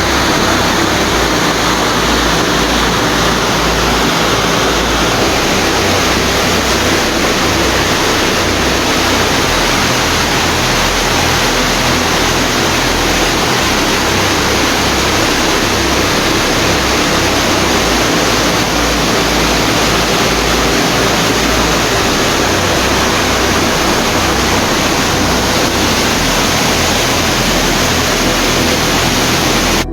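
Loud, steady rush of floodwater, a dense even roar that cuts in and out abruptly.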